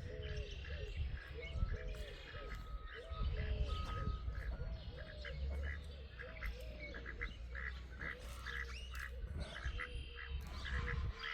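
Poultry calling: a steady run of short calls, each rising and falling in pitch, from several birds at once, over a low rumble.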